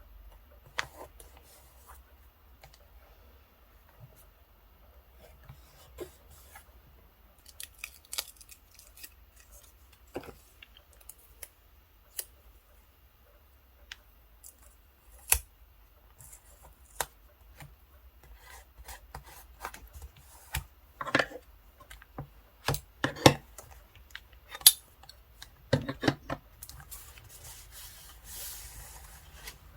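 Scissors cutting paper and stickers, with paper being rubbed and handled: scattered short snips, clicks and rasps, busier and louder in the second half, with a soft paper rustle near the end.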